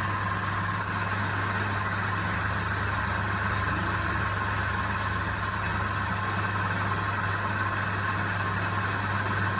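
Electric motor of a woodworking machine running steadily, a constant hum with no change in pitch or load.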